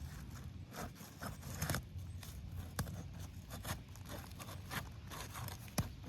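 Asphalt roofing shingles scraping and crackling in irregular short strokes as they are lifted and handled during an inspection for tears.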